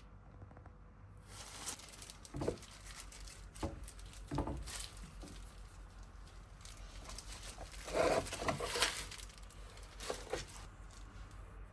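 Irregular rustling, crinkling and rubbing from hands handling cleaning materials for the washing machine's rubber door seal, with a few sharper scrapes and the loudest stretch of rubbing near the end.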